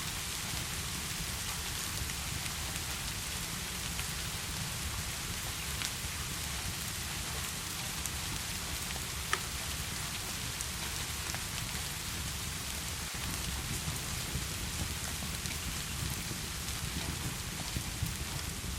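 Steady heavy rain falling, a constant hiss with a low rumble underneath. A few sharp clicks stand out, the loudest about nine seconds in.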